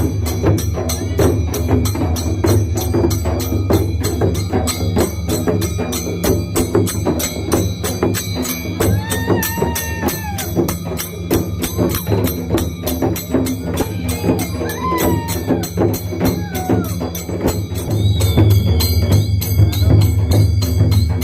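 Festival procession drumming: drums beating with dense, rapid metallic jingling over them. A few shouts rise over it midway, and the drumming grows louder near the end.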